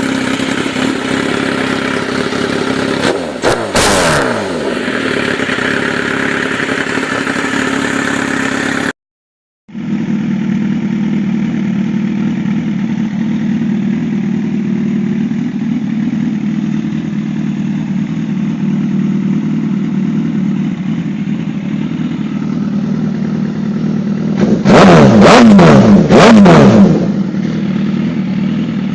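Motorcycle engines idling and revved with throttle blips, the revs jumping up and dropping back. A blip about four seconds in; a short silence about nine seconds in, then a second idling engine, revved hard in several quick blips a few seconds before the end, the loudest part.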